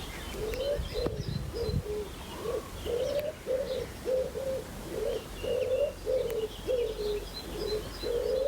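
A pigeon cooing, a long run of even, low coos about two a second, with small birds chirping faintly in the background.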